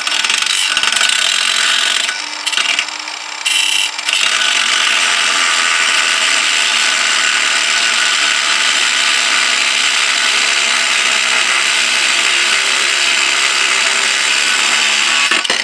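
A power tool's cutting blade running steadily as it cuts through a seized screw on a Jøtul 606 cast-iron wood stove, easing off briefly a couple of times about two to four seconds in.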